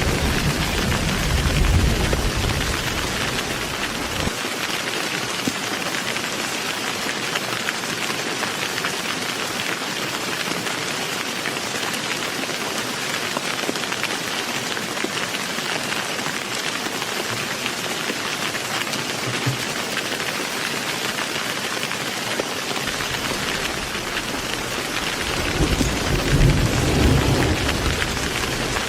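Steady heavy rain, with a low rumble of thunder dying away in the first few seconds and another roll of thunder building near the end.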